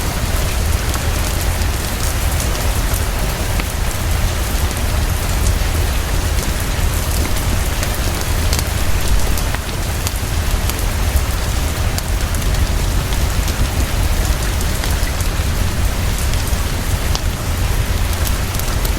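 Heavy, steady rainfall with a deep low rumble underneath and scattered sharp ticks.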